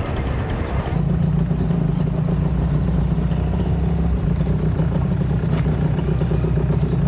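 Yamaha 125Z's two-stroke single-cylinder engine running steadily as the motorcycle is ridden.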